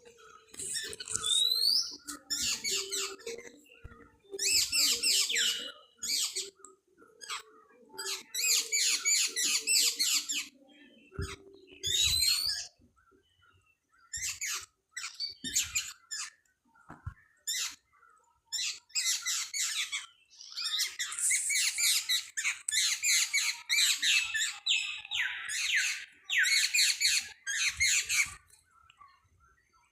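Birds calling in loud bursts of rapid, high-pitched chattering notes, each burst lasting a second or two with short pauses between, some notes sliding quickly upward.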